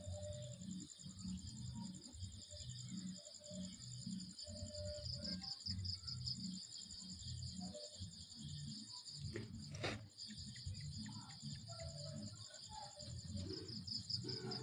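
Night insects, crickets among them, trilling steadily and high-pitched, with a low pulsing sound repeating a few times a second underneath and a single sharp click about ten seconds in.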